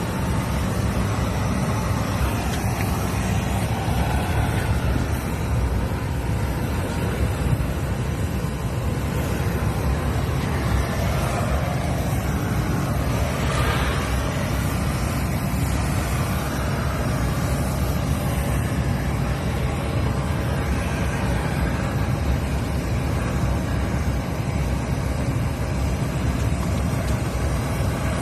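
Steady low rumbling noise of machinery running continuously, with a brief rise in hiss about halfway through.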